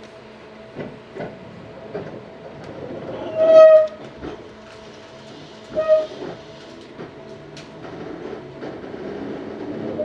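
Tobu 634 series electric train at a station stop, heard from inside the car: a few light clicks, then two short signal tones, the first longer, about two seconds apart, and the running noise builds near the end as the train starts to pull away.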